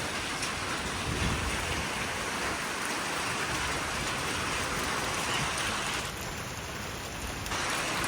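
Strong wind after a thunderstorm rushing through trees, a steady hiss that eases slightly about six seconds in.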